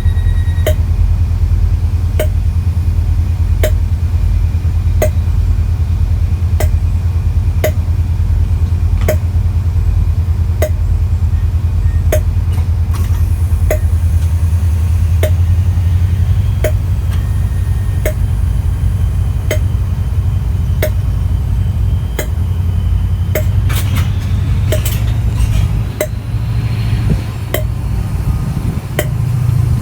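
Diesel train engine running with a deep, steady rumble. A sharp tick repeats a little faster than once a second, with a few extra clicks about three-quarters of the way through.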